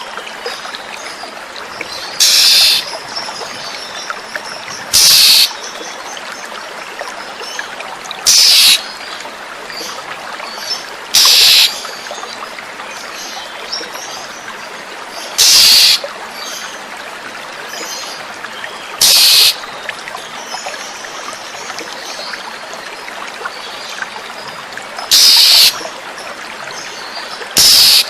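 Oriental magpie-robin (kacer) giving short, loud, harsh rasping calls, eight in all, one every few seconds, with fainter chirping notes between them over steadily running, trickling water.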